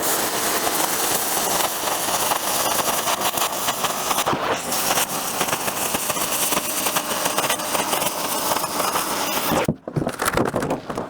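Oxy-acetylene cutting torch hissing steadily with a constant crackle as it burns through rusty, undercoated sheet steel; the hiss stops abruptly near the end.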